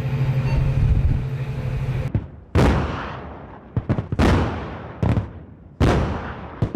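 Heavy gunfire: three loud blasts about a second and a half apart, each dying away slowly, with shorter sharp cracks between them. Before the blasts there is a steady low rumble with a hum.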